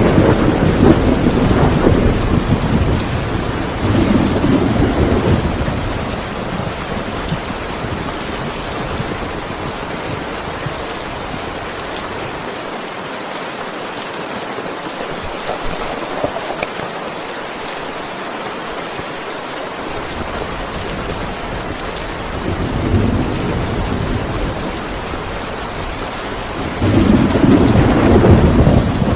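Heavy rain falling steadily, hard enough to be loud, with low rumbling swells at the start, about four seconds in, and again late on.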